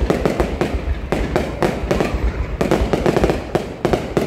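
Fireworks going off in quick succession: sharp bangs several times a second over a continuous low rumble.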